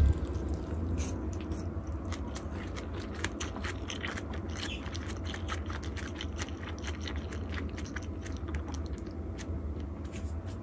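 Someone biting and chewing crispy mung bean sprout pancake, with many irregular crunches over a steady low hum.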